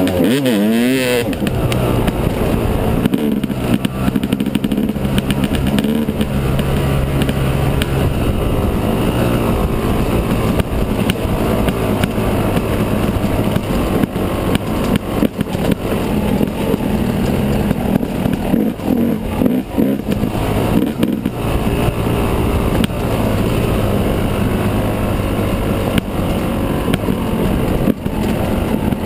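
Yamaha 250 dirt bike engine running while riding, revving up and down in the first second, then holding a fairly steady note with small rises and dips in the throttle.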